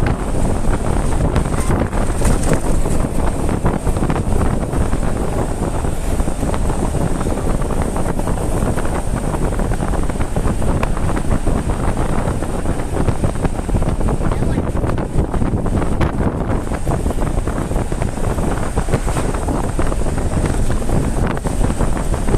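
Steady wind rush and road noise from a car driving at speed, with wind buffeting the microphone and a thin, steady high whine.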